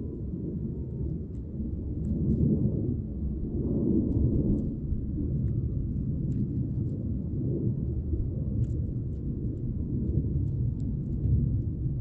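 Steady low rumbling noise with swells, typical of strong snowstorm wind buffeting the microphone, with faint scattered ticks.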